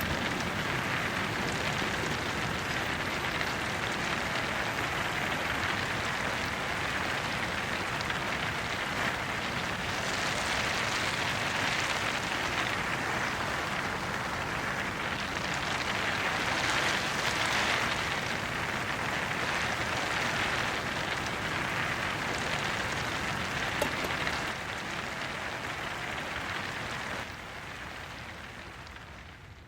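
Heavy rain falling on tent and tarp fabric, steady for most of the stretch, then stepping down in level and fading out near the end.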